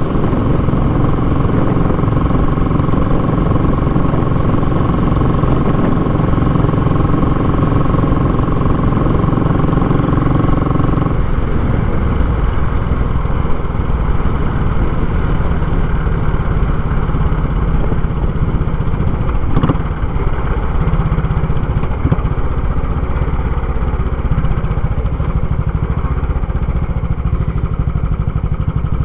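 Royal Enfield Classic 500's single-cylinder engine running through a short, baffle-less muffler, with a steady thumping exhaust. About eleven seconds in its note changes: the higher tones drop away and it settles into a lower, rougher beat.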